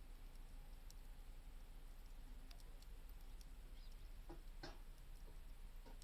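Wood campfire crackling faintly, with scattered small snaps and pops, the loudest two a little past the middle.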